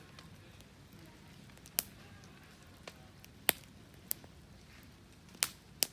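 Wood fire crackling, with about five sharp pops spread irregularly over a low background hiss.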